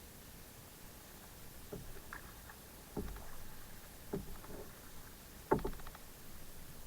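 Kayak paddle strokes in the water: four splashing strokes about a second and a half apart, the last the loudest.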